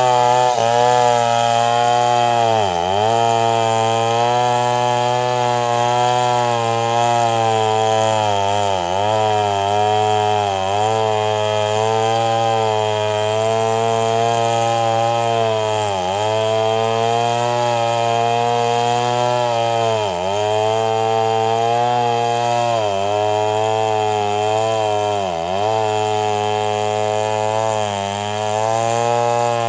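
Two-stroke chainsaw running at high speed while ripping a log lengthwise into boards. The engine holds a steady high pitch that dips briefly and recovers about seven times.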